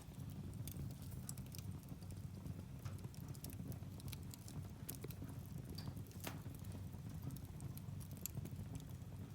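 Firewood burning in a fireplace: a steady low rumble of flame with frequent irregular crackles and pops from the logs, a few louder snaps in the middle.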